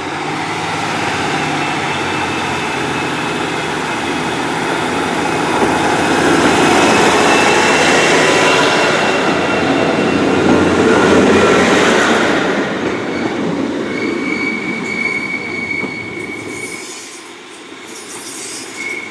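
Diesel multiple unit pulling away, its engine and wheel noise building to a peak around the middle and then fading. High wheel squeal rings out on the curve, continuing in short squeals as the train draws away.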